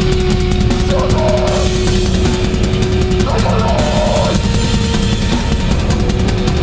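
Hardcore band playing live and loud: distorted guitars and drum kit, with two short shouted vocal lines, about a second in and again from about three seconds.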